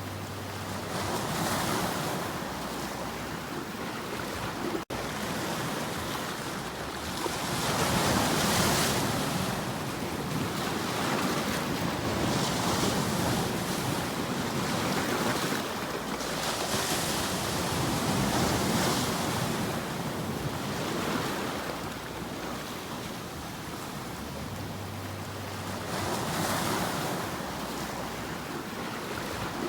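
Ocean waves breaking and washing ashore, swelling and receding every few seconds, with a brief dropout about five seconds in.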